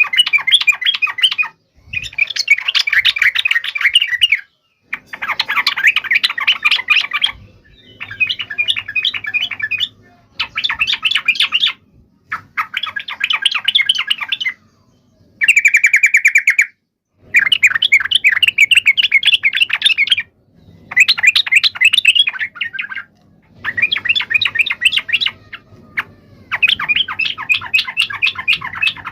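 Yellow-vented bulbul (trucuk) giving loud, excited chattering calls in about eleven rapid bursts of a second or two each, separated by short pauses. One burst near the middle is an even, buzzy trill.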